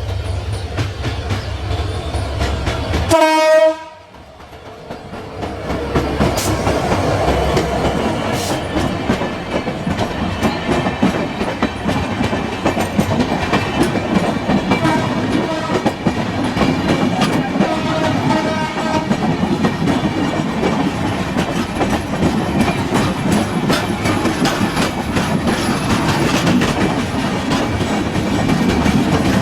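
Diesel-hauled express passenger train gives one short, loud horn blast about three seconds in, then runs past with a steady rattle and clickety-clack of wheels over the rail joints.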